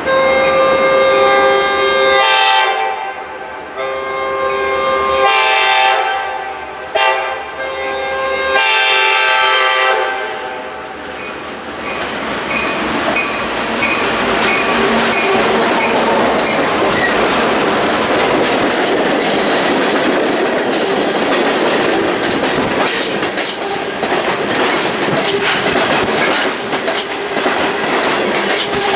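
Diesel freight locomotive sounding its horn in a series of blasts, one of them very short, the last ending about ten seconds in. The locomotive then passes close by, and a long freight train of open-top hopper cars follows with steady wheel rumble, rhythmic clickety-clack over the rail joints and light wheel squeal.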